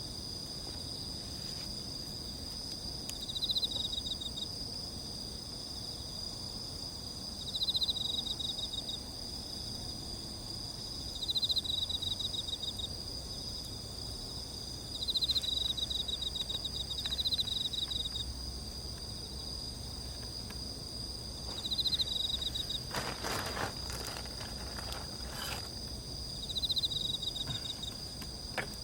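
Crickets and other insects calling: a steady high-pitched trilling chorus, with one insect giving a pulsed trill about a second long roughly every four seconds. A few sharp clicks near the end.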